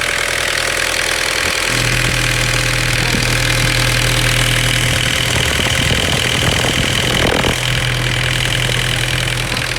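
Vauxhall Carlton diesel engine idling with the oil filler cap off; the crankcase is pressurising, which the owners put down to a blocked oil separator/breather filter. A steady low hum sets in about two seconds in.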